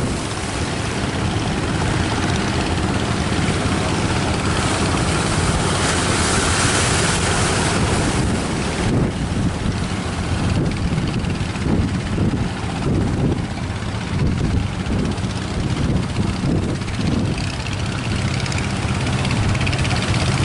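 An engine running steadily, with strong wind buffeting the microphone.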